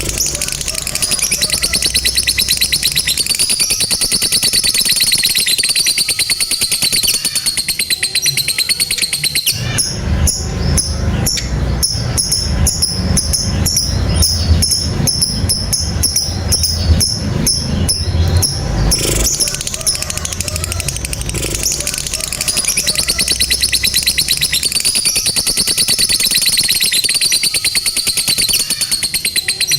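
Lovebird singing its long, unbroken chattering 'ngekek', a very fast high-pitched rattling trill. About ten seconds in the chatter changes character and a low rumble sits beneath it for about ten seconds, then the high trill returns.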